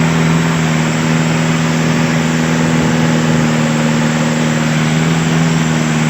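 Long-tail boat engine running at a steady speed, a loud, even drone that holds one pitch throughout.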